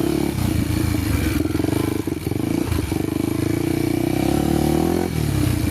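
Honda XR250 Tornado's single-cylinder engine running on the move. The revs climb from about four seconds in and drop off sharply just after five seconds.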